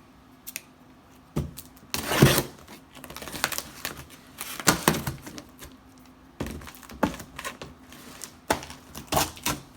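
Cardboard shipping box being opened by hand: irregular rustling, scraping and tearing of cardboard and packing, with scattered knocks and clicks and a louder burst about two seconds in.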